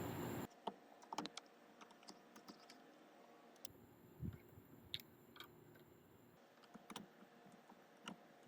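Near silence broken by faint, scattered small clicks and taps, the sound of hands handling wires and small electrical parts.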